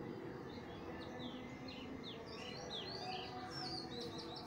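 Faint chirping of small birds, many short quick calls, busier in the second half, over a steady low background hiss.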